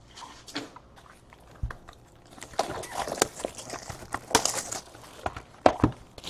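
Trading-card pack wrappers crinkling and tearing and cards being handled, in irregular bursts of crackling, densest about halfway through, with a couple of sharp clicks near the end.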